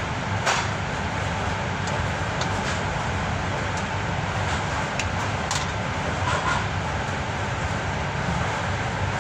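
Steady low rumble of background noise, with a few short sharp clicks about half a second in and around five seconds in.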